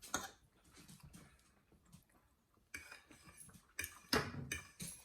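Faint eating sounds: scattered small clicks and short bursts of chewing, a few louder around four seconds in.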